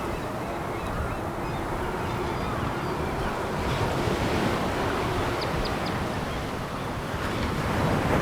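Sea waves breaking and washing over a pebble beach: a steady rushing surf.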